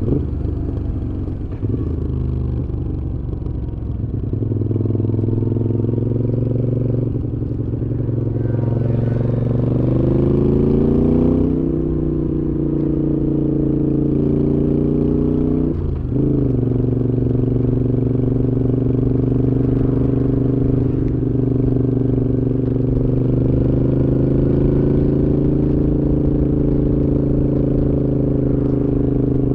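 Moto Guzzi V7's transverse V-twin through Mistral exhausts while riding. The revs climb steadily for a few seconds, drop with a brief break near the middle as it shifts gear, then the bike cruises at a steady, slowly rising engine note.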